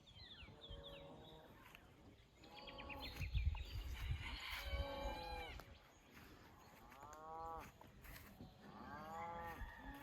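Faint cattle mooing, a string of short calls rising and falling in pitch, the loudest about three to five seconds in and several more in quick succession near the end.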